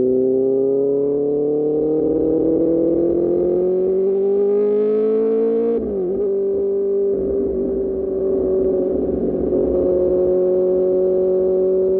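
QJ Motor SRK600 inline-four with an Austin Racing exhaust, its note climbing steadily under acceleration for about six seconds, dipping sharply at a gear change, then holding a steady, slowly rising pitch.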